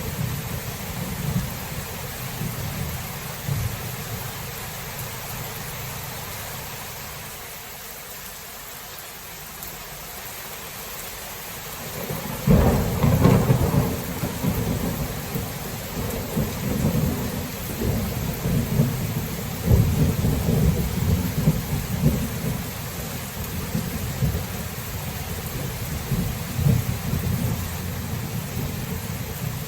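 Thunderstorm: steady rain with low rumbling thunder, then a sudden loud thunderclap about halfway through that rolls on in rumbles for several seconds.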